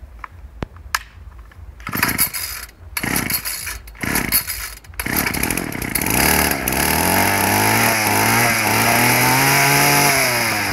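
Cold start of a 31cc Ryobi two-stroke line trimmer engine. After some clicking handling noises come a few short bursts as it is pulled over. It catches about five seconds in and runs, its pitch climbing steadily before dropping suddenly near the end.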